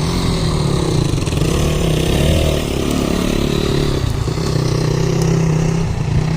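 Motorcycle engines running, their pitch rising and falling for a couple of seconds before settling back to a steady note.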